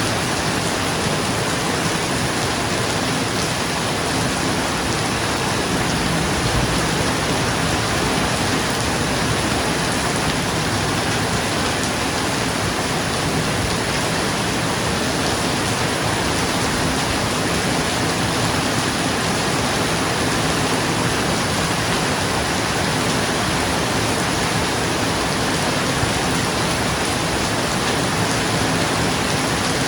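Steady heavy rain falling on a roof, an even rushing hiss with no distinct thunderclap.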